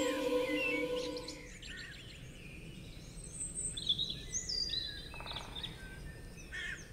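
Music fades out over the first second or so, then birds chirp and tweet in short calls over a faint hiss.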